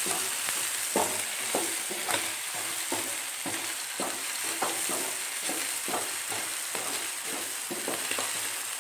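Boiled chicken pieces with onions and spices sizzling in hot oil in a pot, stir-fried (bhuna) with a wooden spoon that scrapes through them in repeated strokes over a steady frying hiss.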